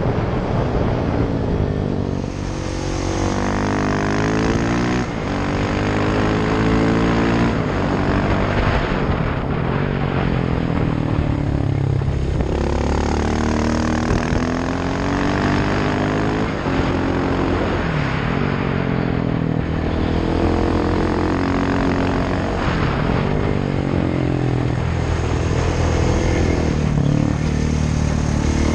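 KTM 690 SMC R's single-cylinder engine, heard on board through a Sebring exhaust with no dB killer. It revs up and falls back every few seconds as it pulls through the gears and slows for the bends.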